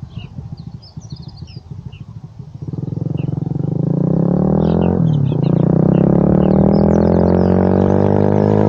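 Super Cub's Lifan 125 single-cylinder four-stroke engine breathing through a cheap aftermarket stainless Monkey muffler: a loping, uneven beat at first, then about two and a half seconds in the revs climb as it pulls away. The revs drop briefly at a gear change about five seconds in, then climb again.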